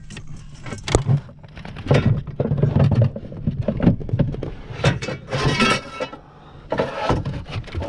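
Scrap and junk being pulled and shifted by hand in a debris pile: a string of knocks and thuds, with a scraping rub about five seconds in.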